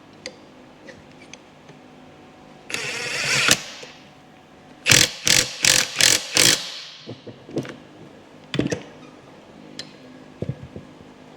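Hammer blows on metal transmission parts: five sharp knocks about three a second, after a brief scrape that grows louder. A few lighter metal clinks follow.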